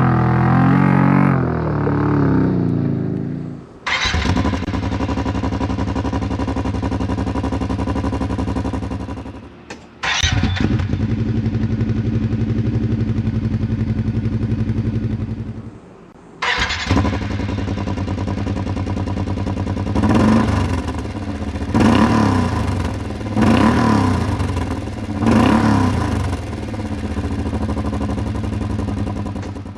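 Kawasaki Teryx UTV's V-twin engine through an HMF Titan aftermarket exhaust, in several clips cut together: it settles from a rev at the start, then idles steadily. Near the end it is blipped four times in quick succession, each rev falling back to idle.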